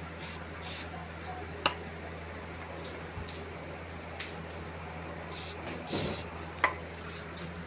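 WD-40 aerosol can spraying in short hissing bursts, two near the start and two more about five to six seconds in, to drive moisture out of a wet remote control. A couple of sharp clicks fall between the bursts.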